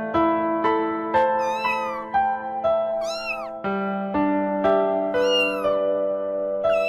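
A cat meowing about four times, short high calls that rise and fall in pitch, over background piano music.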